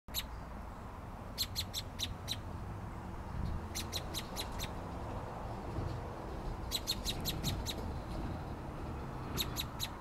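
A bird in a tree calling in short bursts of three to six sharp, high, repeated notes, about five notes a second, with a burst every two to three seconds. A steady low background rumble runs underneath.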